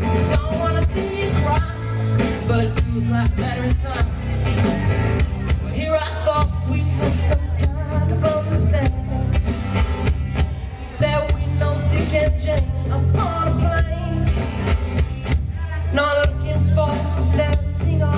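Live band playing a bluesy rock song, with singing at times over a steady bass line.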